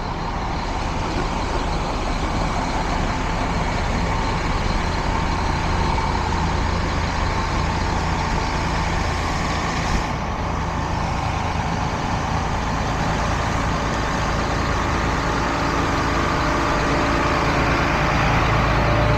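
Tow truck engine running steadily under a constant hiss, growing louder near the end.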